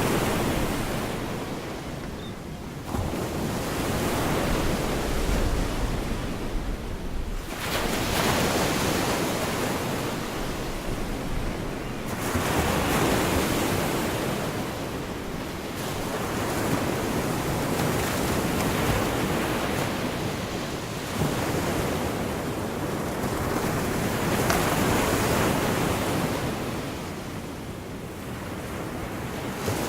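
Gulf of Mexico surf breaking and washing up the beach, the noise swelling and easing every several seconds, with some wind rumbling on the microphone.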